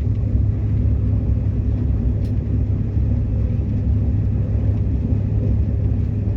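Subway train running along the track: a steady low rumble of wheels and running gear, with a faint click about two seconds in.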